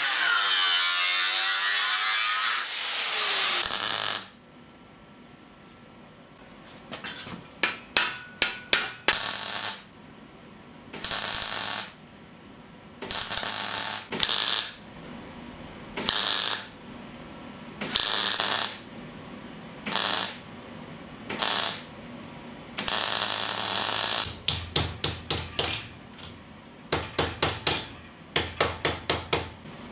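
Welding on the floor supports: a welder's arc crackles in a series of short bursts and tacks, with rapid strings of quick tacks near the end. Before that, a loud grinding or cutting noise with a falling pitch stops about four seconds in.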